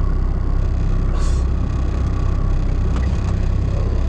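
Diesel engine of a tri-axle rollback truck running steadily as it reverses, with a brief hiss about a second in.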